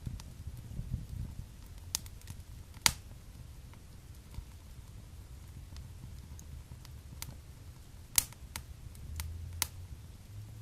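Wood fire in a fireplace crackling: a soft low rumble of flames with scattered sharp pops, the loudest about three seconds in and again about eight seconds in.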